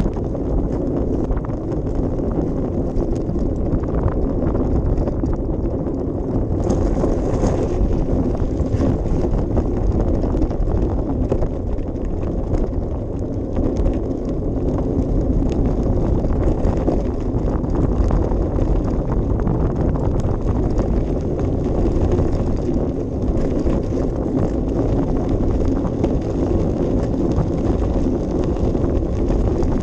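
Wind buffeting an action camera's microphone over a steady rumble, with many small knocks and rattles throughout, as from a bicycle ride on an unpaved path.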